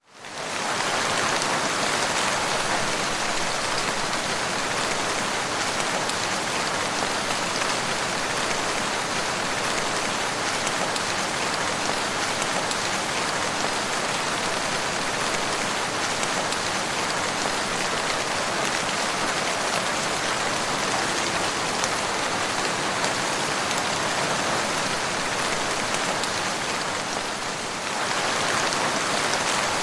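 Steady rain falling and pattering on surfaces, fading in at the start and then holding even.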